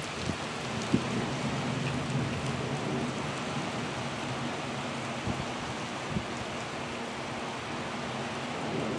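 Steady rushing of strong gusty wind ahead of a severe thunderstorm, with a few faint ticks.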